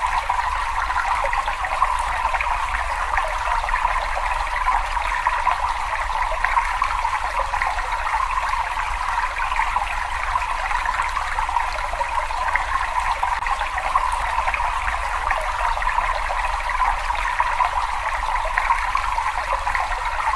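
Water trickling and splashing steadily: a continuous, even babble of running water.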